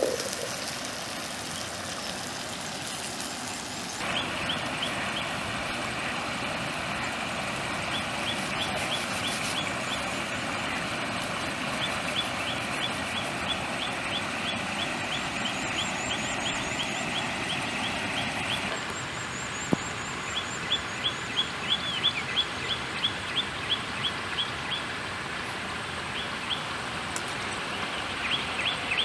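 Steady outdoor hiss with rapid, repeated high chirping calls that start about four seconds in and come in runs, with a run of sharper, regular peaks near the end.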